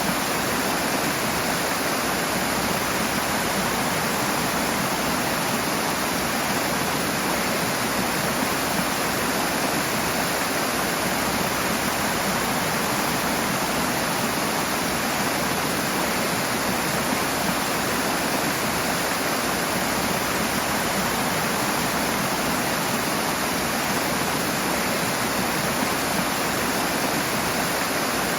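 Rushing water, a steady loud splashing rush of a fast stream or small waterfall, even and unbroken throughout.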